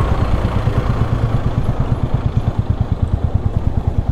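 Royal Enfield Classic 350's single-cylinder engine and exhaust running steadily while the motorcycle is ridden, a low, evenly pulsing thump.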